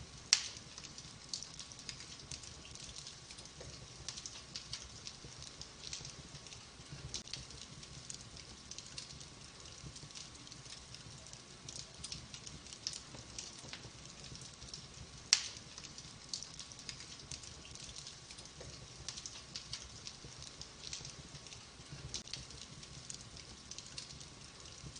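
Wood fire in a fireplace crackling, with frequent small pops over a soft hiss and two sharper, louder pops, one near the start and one about halfway through.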